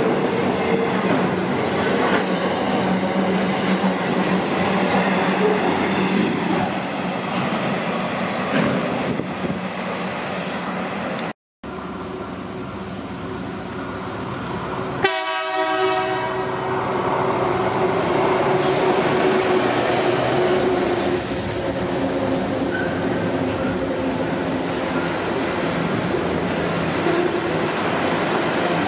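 Container freight train wagons rolling past close by, with rumble and clickety-clack from the wheels. After a cut, a second train sounds its horn briefly about halfway through, then passes with wheel noise and a thin high squeal from the wheels.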